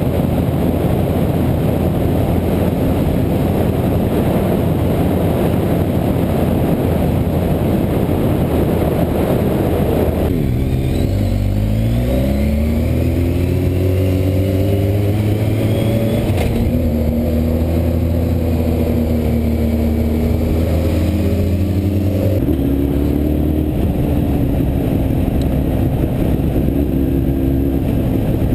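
Motorcycle engine running on the road with heavy wind rush. About a third of the way in, the engine note becomes clearer and rises and falls with throttle and gear changes, with a few abrupt jumps in the sound.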